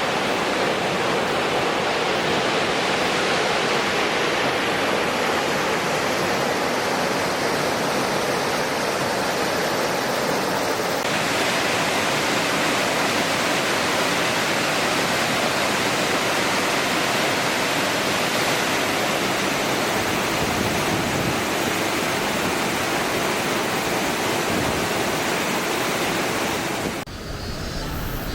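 A waterfall in heavy flow after a typhoon, its falling water rushing in a loud, steady wash of noise. About a second before the end, the water sound cuts off and music begins.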